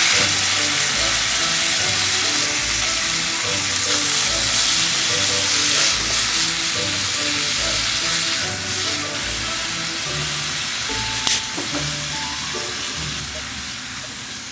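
Food sizzling in a hot frying pan, a dense hiss that slowly dies down toward the end, with a single sharp click about eleven seconds in. Background music plays under it.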